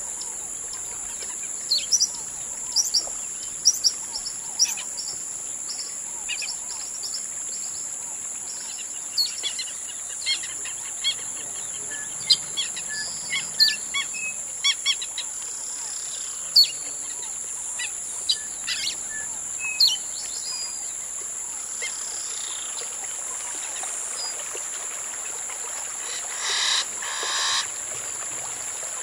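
Birds chirping, with many short high calls scattered through the first two-thirds and a louder, longer call in two parts near the end.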